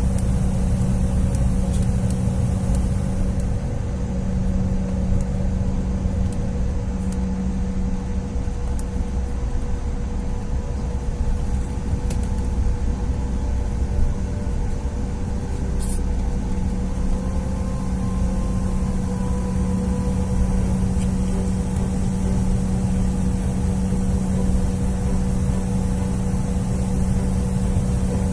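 Steady cabin noise of a Bombardier CRJ1000 on the ground after landing, its rear-mounted General Electric CF34 turbofans running at idle: a constant low rumble with a steady hum and a fainter higher tone held over it.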